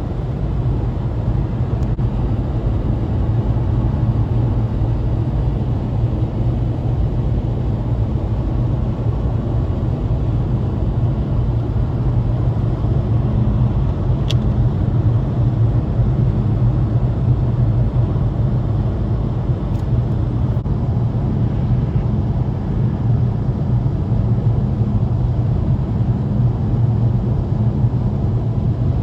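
Steady low rumble of road and engine noise in a car driving at highway speed, heard from inside the cabin.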